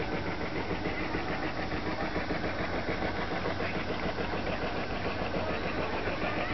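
Boat engine idling, a steady, rapid, even chugging.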